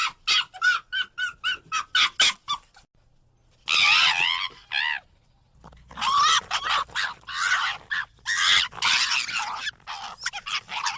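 Fox calling: a quick run of short, sharp barks, about two or three a second, then longer wavering cries in bouts.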